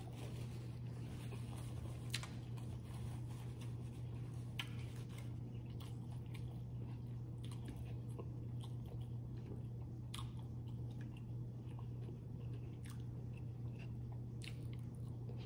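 A person chewing and biting food, with a handful of sharp crunches or mouth clicks spread through, over a steady low hum.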